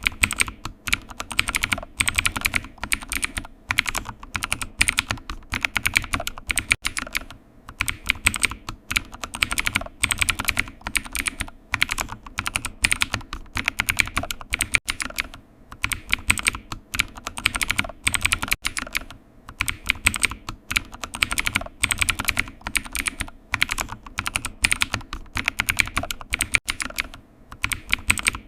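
Computer keyboard typing: quick, irregular key clicks in steady runs with short pauses.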